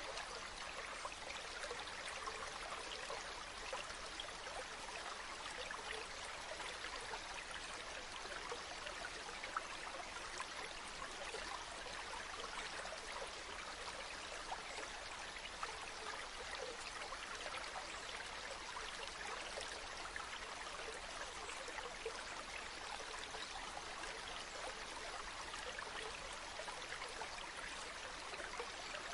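A small stream babbling steadily, a dense run of tiny splashes and trickles.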